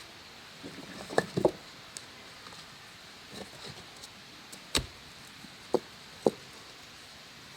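A handful of sharp, irregular knocks over a faint steady hiss: a quick pair a little over a second in, then three more spaced out through the second half.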